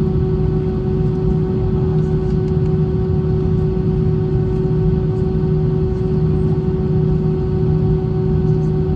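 Steady cabin noise of an Airbus A320 in flight: the continuous drone of its jet engines and rushing air, with a constant hum in it.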